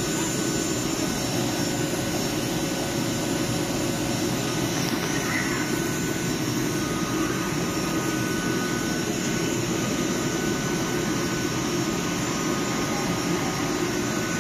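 Steady hum and rush of a stationary ICE high-speed train's cooling fans and onboard equipment running at the platform, unchanging throughout.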